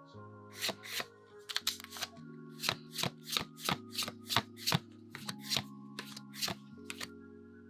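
Pokémon trading cards being flicked through one at a time from a booster pack, a sharp snap about three times a second, over soft background music with sustained chords.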